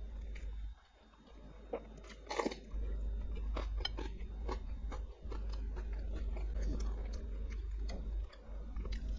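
Close-miked chewing and biting of food, with irregular crisp crunches and wet clicks, over a low steady hum.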